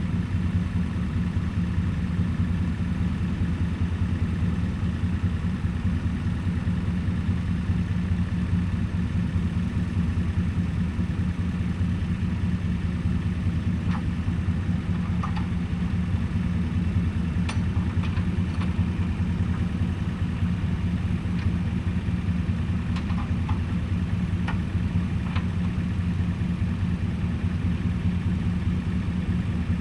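Tractor engine running steadily at an even idle, with a few faint sharp clicks and snaps in the second half.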